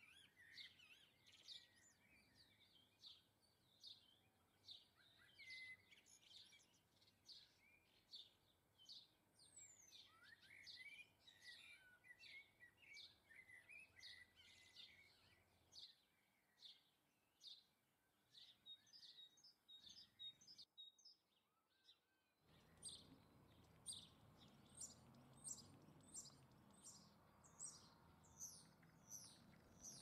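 Small songbirds chirping and twittering, a dense run of short high calls. About two thirds through there is a brief near-silent break, after which the chirps come evenly spaced, roughly one or two a second, over a faint steady background noise.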